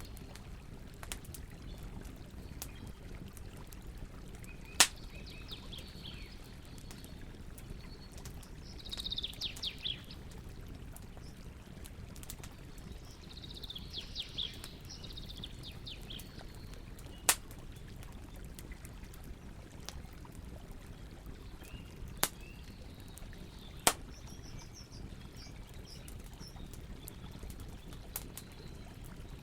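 Campfire burning with a low steady rush and scattered crackling, four sharp pops standing out as the loudest sounds. Small birds chirp in several short bursts throughout.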